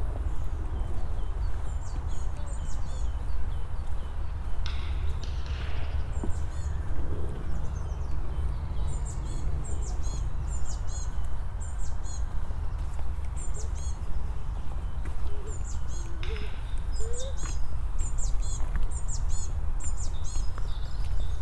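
Small birds chirping, many short high calls repeated throughout, over footsteps on a path and a steady low rumble.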